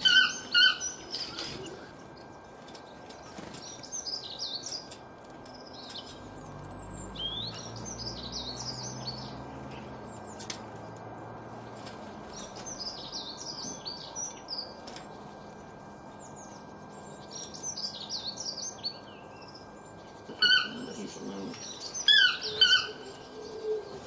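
Birds calling in trees. Loud, short, repeated calls sound near the start and come back about twenty seconds in, with quieter bursts of high, rapid twittering every few seconds in between.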